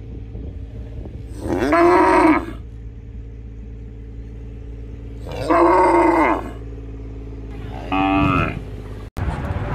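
Cattle mooing: three moos, each around a second long and a few seconds apart, the last one shorter, over a steady low background rumble.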